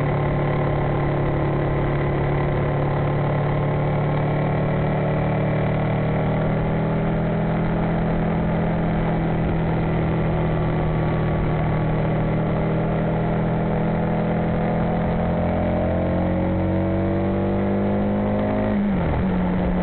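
Aprilia Mille's V-twin engine pulling steadily at road speed, its note slowly falling for most of the stretch and then rising a little, with a quick dip and recovery in pitch near the end. Wind rushing over the bike-mounted microphone runs underneath.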